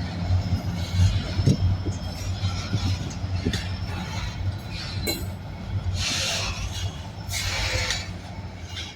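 Freight train hauled by EMD diesel locomotives: a steady low diesel drone with scattered metallic clanks, and two bursts of hiss near the end.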